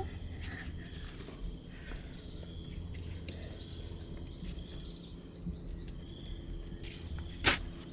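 Steady, high-pitched chorus of insects, with a low rumble underneath. A single sharp knock near the end.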